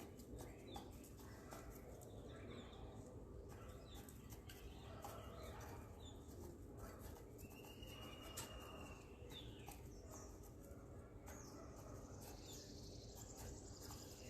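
Faint outdoor background with scattered small bird chirps and light clicks, and one longer, even bird call about seven seconds in.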